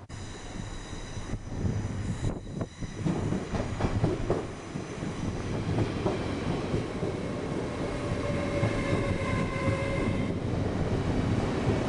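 Passenger train running through a station: a dense rumble of wheels on rail that grows louder about two seconds in, with high steady whining tones over it.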